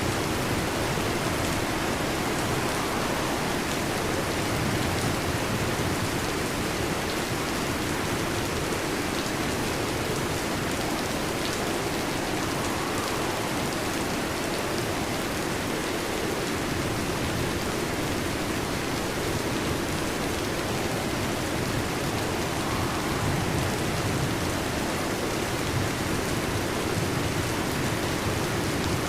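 Steady rain falling, an even unbroken hiss with no change in level.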